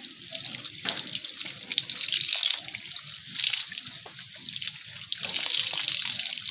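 Water running and splashing as mud is washed off hands and legs, the splashing swelling and easing as she scrubs.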